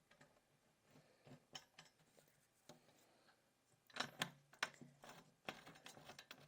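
Allen key turning a furniture bolt into a bookcase board, giving scattered small metal clicks and scrapes, with a denser cluster of clicks about four seconds in and again near the end as the bolt tightens.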